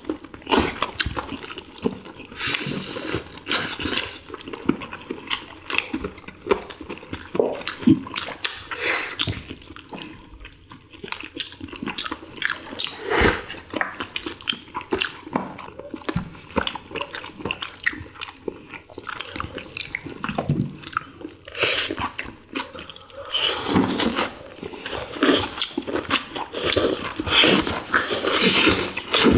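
Several people eating boiled whole chicken with their hands, close to the microphone: wet chewing and lip smacking, with many quick irregular clicks as meat is pulled and bitten off the bone. The eating sounds grow busier over the last few seconds.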